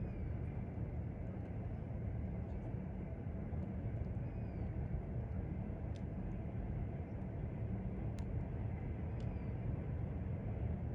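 A wood fire crackles sharply three times, about six, eight and nine seconds in, over a steady low rumble. A few faint, short high chirps sound in between.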